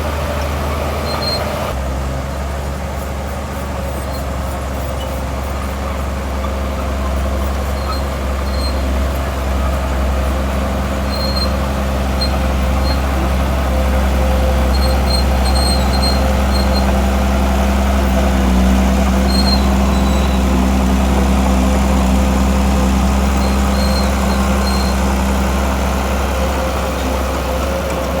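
Heavy diesel engine of earthmoving machinery running steadily under load, growing a little louder through the middle and easing off near the end.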